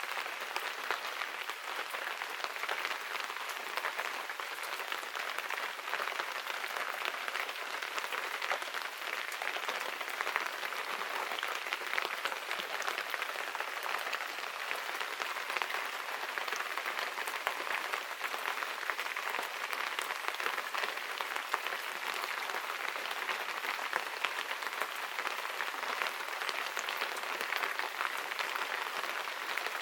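Steady rain falling, an even hiss made of many small drop ticks.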